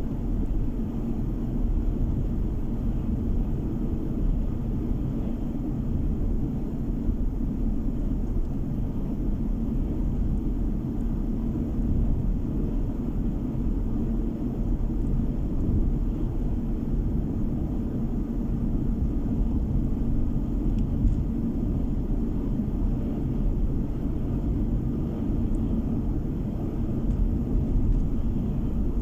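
Car driving at steady speed, heard from inside the cabin: an even low rumble of tyre and engine noise that holds steady throughout.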